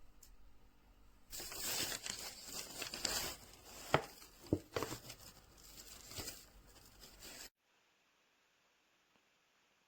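Packaging being handled: crinkling and rustling with a few sharp clicks. It stops abruptly about seven and a half seconds in, followed by dead silence.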